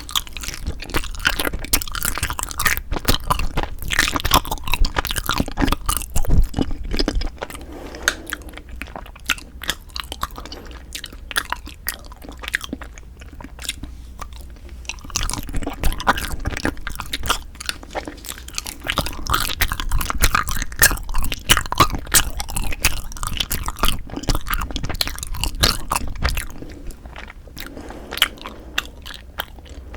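Close-miked ASMR chewing and biting of food, a dense run of small sharp clicks. It is busy at first, thins out for several seconds in the middle, grows busy again and eases off near the end.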